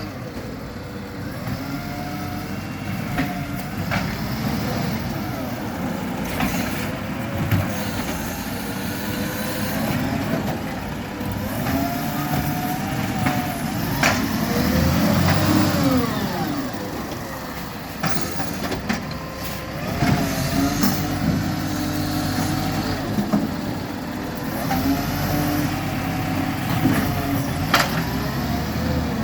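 Garbage truck working a bin collection: the engine runs and revs under load, with repeated rising and falling whines and a few sharp knocks.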